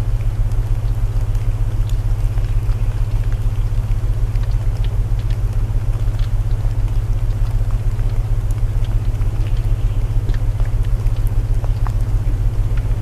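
Layered sleep soundscape: steady low binaural tones are the loudest part, over a constant hiss of rain and the irregular crackle and pops of burning wood.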